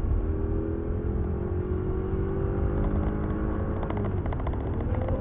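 Audi A8L (D3) engine under hard acceleration in an Italian tune-up, its pitch climbing steadily, then dropping sharply about four seconds in, as at an upshift, and climbing again. A run of faint ticks comes near the end.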